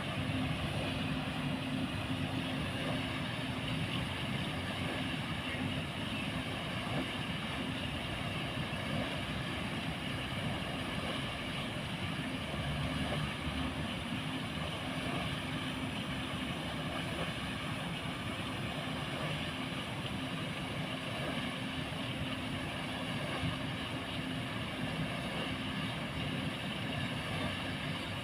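Motor-driven paddle-wheel pond aerator running steadily: a constant motor hum under the continuous wash of churned water.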